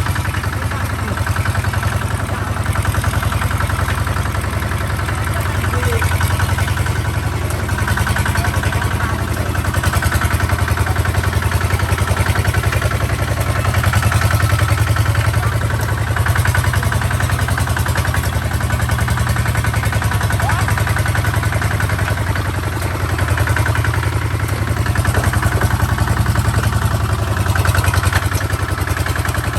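Kubota tractor's diesel engine running steadily with a fast, even thudding pulse. Its loudness swells and eases only slightly.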